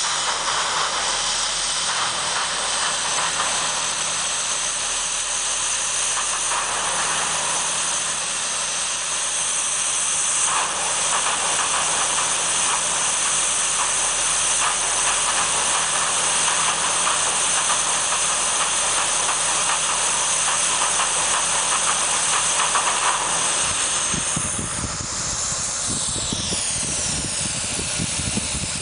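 Acura TL engine running with a loud steady hiss of air being sucked into the intake, as happens while Seafoam is drawn in through the intake to clean it. About 24 seconds in, the hiss sweeps in pitch and a low fluttering rumble comes in.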